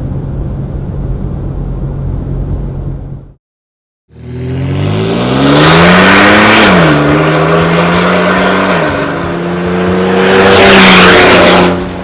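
2011 Ford F-150's 3.5-litre twin-turbo EcoBoost V6 through an MBRP 3-inch turbo-back exhaust: a steady low hum while cruising, then, after a brief cut, loud hard acceleration with the engine pitch rising and dropping at two upshifts before climbing again.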